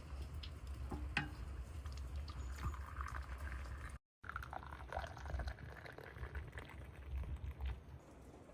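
Liquid being poured, with a few light clicks and knocks. The sound drops out completely for a moment about four seconds in.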